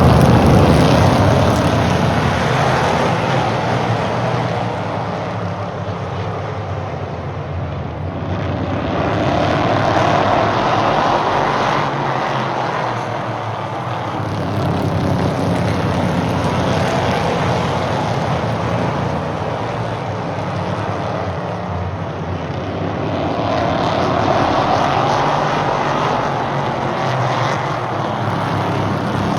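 Stock car engines running in a pack around a short oval track, the sound swelling and rising in pitch twice as the cars come by.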